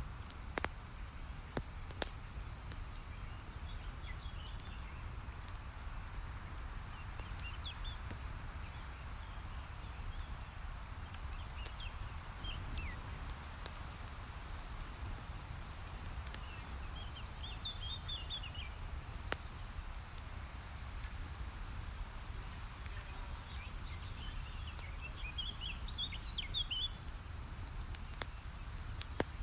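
Outdoor campfire ambience: a steady low rumble with occasional sharp pops from the fire, and short bursts of quick bird chirps every several seconds, the busiest near the end.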